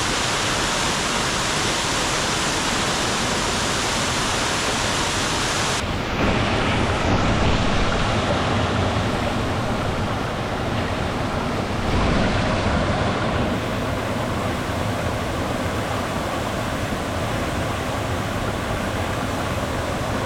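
Melincourt waterfall rushing in a loud, steady roar of falling water. About six seconds in the tone shifts abruptly, losing some of its top hiss, and there are two brief low swells after that.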